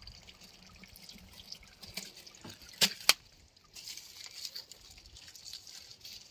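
Engine oil trickling and dripping out of a Komatsu PC210 excavator during an oil change, with two sharp metallic clicks about three seconds in.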